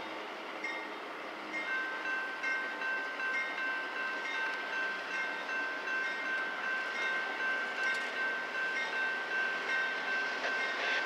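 Freight train approaching behind a diesel locomotive: a rumble that swells and fades about twice a second, with a thin, high-pitched steady tone that comes in about two seconds in and holds.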